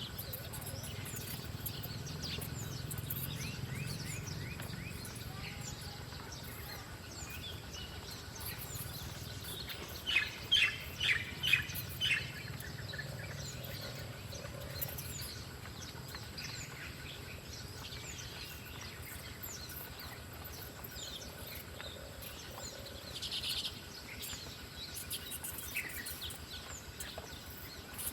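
Wild birds chirping in short, quick calls throughout. About ten seconds in, a close bird gives a quick run of about five loud calls, and there is another brief call near the end, over a low steady hum.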